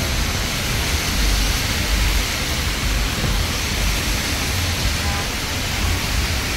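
Steady hiss of falling rain, with a low rumble that swells and fades every second or two.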